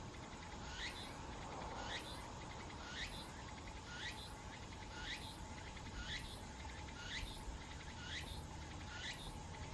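A bird repeating a short, thin, upward-sweeping call note about once a second, over a faint steady background hum.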